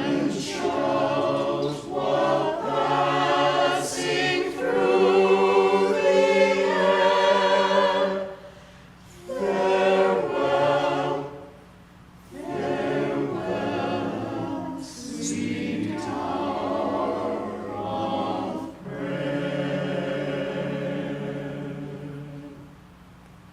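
Church choir singing in several phrases separated by short breaths, the last phrase held and then fading away shortly before the end.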